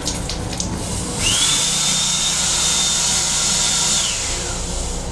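An electric motor in an M7 railcar restroom fixture spins up about a second in to a high steady whine with a rush of air. It runs for nearly three seconds, then winds down, over the steady low rumble of the moving train.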